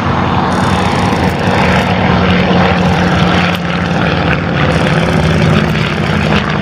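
Twin Armstrong Siddeley Cheetah radial engines of an Avro Anson Mk I running steadily in flight, with propeller noise.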